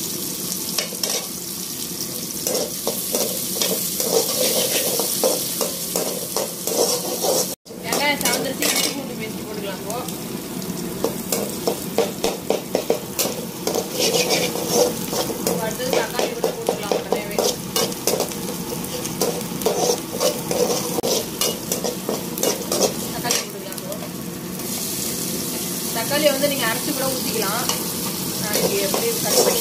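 Chopped onions, and later chopped tomatoes, sizzling in hot oil in a metal kadai, with a slotted metal spoon scraping and clinking against the pan as they are stirred. The sound cuts out for an instant about a quarter of the way in.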